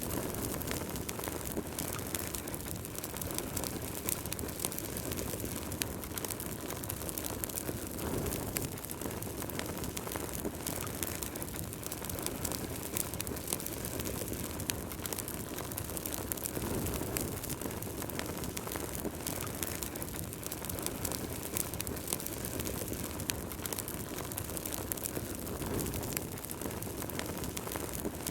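Wood fire burning in a fireplace: a steady low rush of flame with frequent small crackles and pops throughout.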